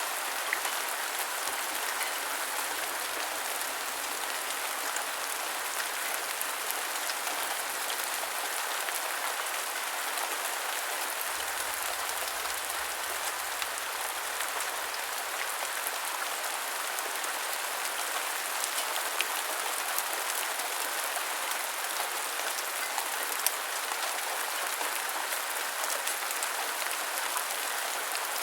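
Heavy rain falling steadily, a dense even hiss of rain on surfaces with many fine individual drop ticks.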